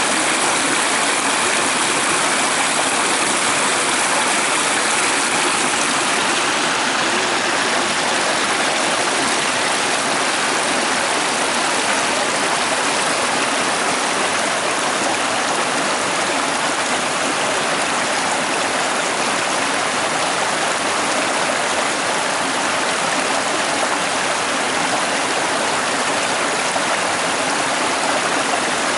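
Mountain stream rushing steadily over rocks: the young Prut river near its source.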